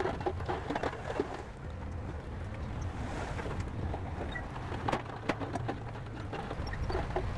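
Heavy diesel earthmoving machinery running with a steady low rumble, with scattered clanks and knocks over it, the sharpest about five seconds in.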